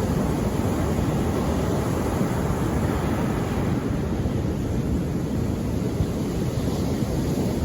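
Steady sea noise: a continuous, deep rumbling wash of surf with no separate waves standing out, played as relaxing background noise.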